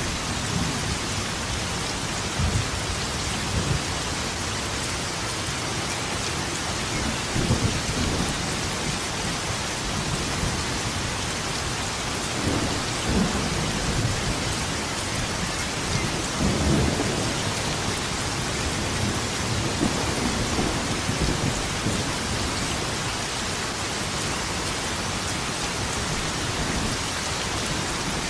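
Steady rain falling, with low thunder rumbling through it several times, swelling and fading every few seconds.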